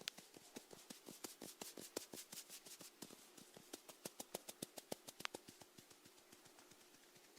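Snails feeding close to the microphone: a quick, irregular run of tiny crisp clicks, several a second, thinning out after about five seconds.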